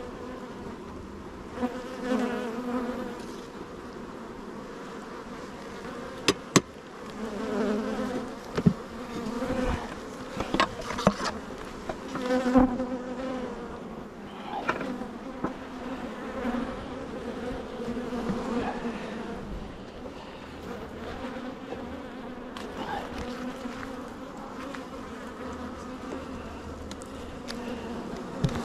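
Honeybees buzzing in numbers around an open hive: a steady hum that swells and fades as bees pass close. A few sharp knocks and clicks stand out over it.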